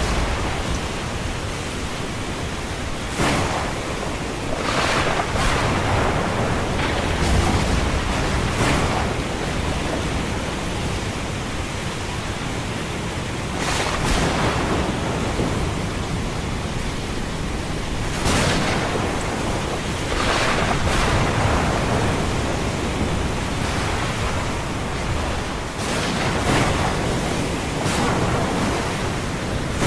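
Ocean waves with a thunderstorm: a steady rushing of surf, with about a dozen brief louder surges spread through it.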